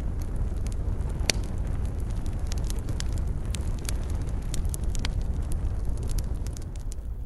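Bonfire burning: a steady low roar with scattered sharp crackles and pops, one louder pop about a second in.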